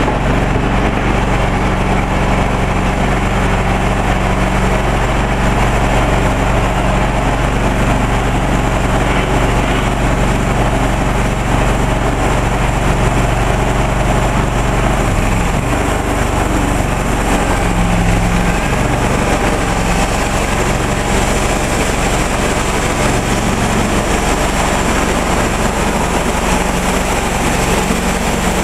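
Engine of a homemade portable sawmill running steadily while the mill saws a small log, its low tones shifting between about 15 and 20 seconds in.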